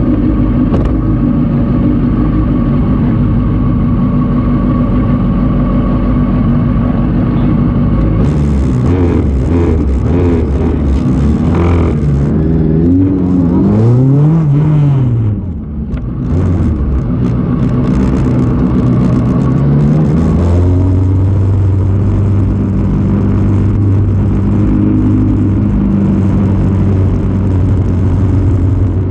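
Suzuki Bandit 600's inline four-cylinder engine idling, then revved several times with the pitch rising and falling, dipping briefly about fifteen seconds in. After that it settles to a steady note as the bike rolls off at low speed.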